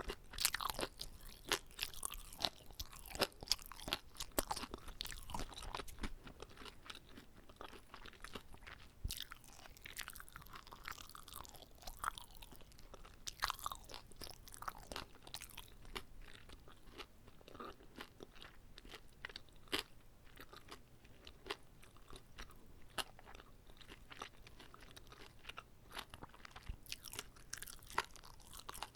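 Close-miked chewing of a whole gimbap roll, full of wet clicks and crunchy crackles, with a few bites.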